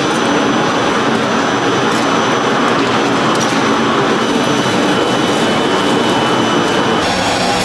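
Steady, loud machinery noise in a workshop, a dense even din with a faint high whine that stops about seven seconds in.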